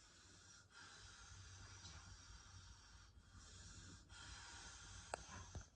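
Faint, long, breathy breaths of a woman in labour breathing through a contraction, in several drawn-out strokes of one to two seconds each, with a sharp click near the end.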